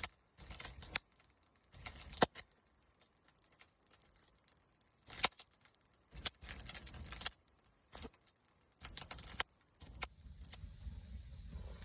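Wood fire crackling, with irregular quick clicks and a few sharper pops.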